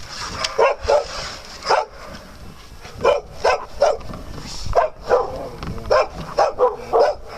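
Dog barking: a string of about a dozen short barks, coming faster in the second half.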